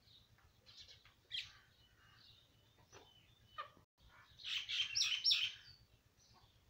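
Short, high bird chirps: a few scattered ones, then a louder, busier run of chirping about four to five and a half seconds in.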